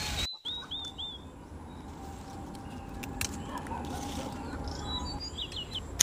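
Small bird chirping: a quick run of short, high chirps near the start and another run about five seconds in, over a low steady background noise.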